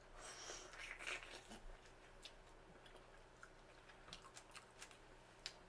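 Faint close-miked chewing of seafood boil, with soft wet mouth clicks scattered throughout; the chewing is strongest in the first second or so.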